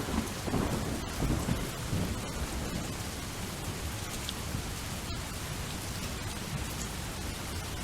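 Steady rain falling, with a low rumble of thunder in the first two seconds.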